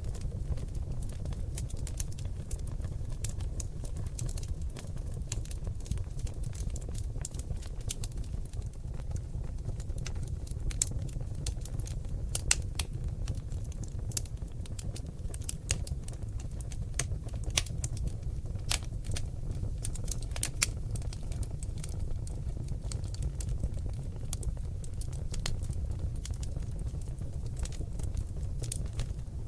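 Seasoned oak logs burning in a fireplace: a steady low rumble of flames under quick, irregular crackles and pops, a few sharper pops standing out.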